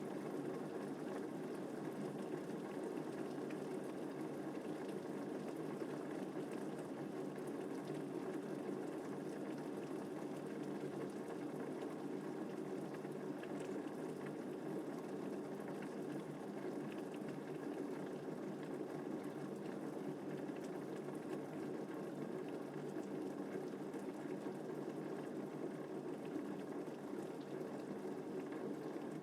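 Steady rain falling, an even hiss that holds the same level throughout with no thunder.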